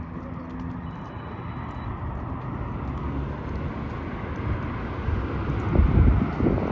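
Outdoor street noise: a steady traffic rumble that slowly grows louder, with a brief low buffet of wind on the microphone about six seconds in.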